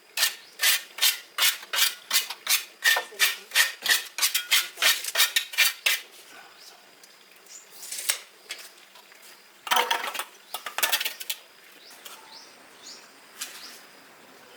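Rhythmic back-and-forth scraping on a hard surface, about three strokes a second for six seconds, then one short scrape and, about ten seconds in, a few more quick strokes.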